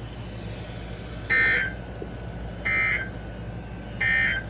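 NOAA Weather Radio SAME digital end-of-message code: three short buzzing data bursts about 1.3 seconds apart, marking the end of the severe thunderstorm warning message. A faint steady low hum runs underneath.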